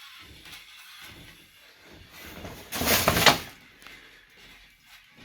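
Quiet handling and rustling noises, then about three seconds in a loud, grating rattle lasting under a second as something is dragged or shifted.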